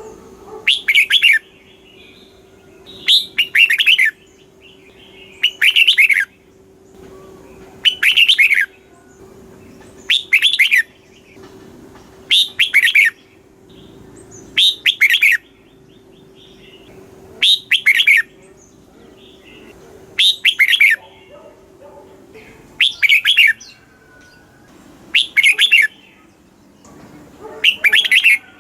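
Red-whiskered bulbul song: about a dozen short, quick whistled phrases, one every two to two and a half seconds.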